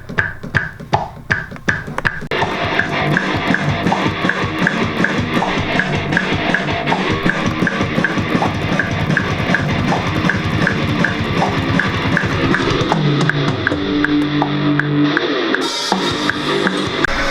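Rock music from a drum kit and guitar. The drums play sparse hits at first, then a full, steady beat from about two seconds in. Near the end the drums drop out, leaving held guitar chords.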